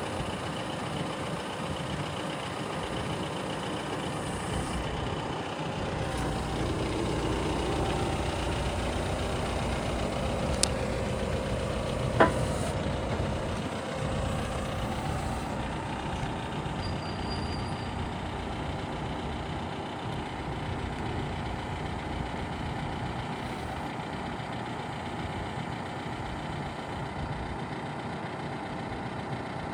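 John Deere 310SL backhoe loader's turbo diesel engine running steadily, a little louder in the middle, with two sharp metallic clanks about ten and twelve seconds in.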